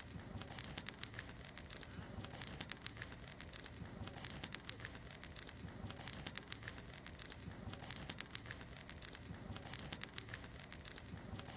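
Wood bonfire crackling with irregular sharp pops, over a steady high trill of insects.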